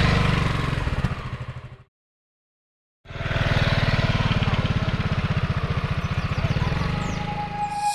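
Small motorcycle engine running during a ride, with a steady firing pulse. The sound cuts to complete silence for about a second, starting about two seconds in, then the engine resumes.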